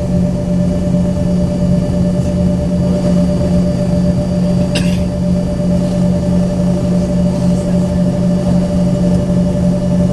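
Embraer ERJ-135's rear-mounted turbofan engines idling, heard inside the cabin as a steady low hum with a fixed higher whine. A single short click about halfway through.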